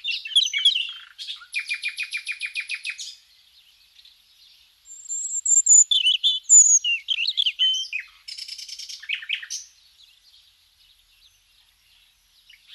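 Songbird singing in chirps and whistled notes, with two fast trills of rapidly repeated notes: one starting about a second in and lasting about two seconds, another about eight seconds in.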